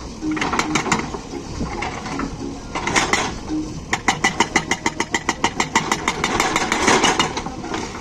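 Hydraulic rock breaker on a JCB 3DX backhoe loader, with the machine's diesel engine running under irregular clanks and knocks, then about four seconds in the breaker starts hammering rapidly, about eight blows a second.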